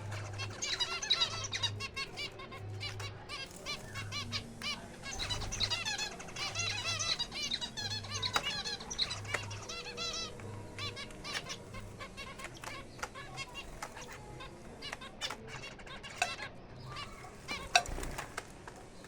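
Small aviary finches chirping and twittering in quick overlapping calls, with fluttering wings and sharp clicks of birds landing and hopping about.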